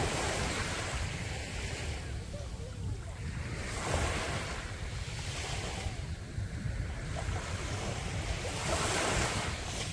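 Sea waves breaking on the beach, a louder surge roughly every four to five seconds over a steady wash of surf, with wind buffeting the microphone.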